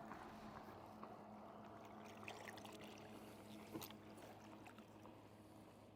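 Near silence: faint water lapping and trickling at a kayak, over a faint steady low hum, with a few small knocks, the clearest a little under four seconds in.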